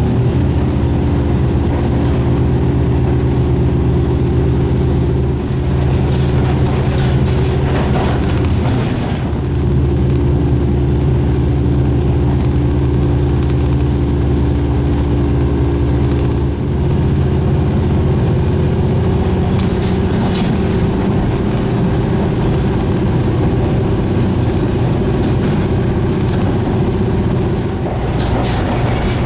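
Diesel railcar running, its engine giving a steady drone with a few clicks from the wheels and track; the engine note dips briefly about nine seconds in and changes again past the middle.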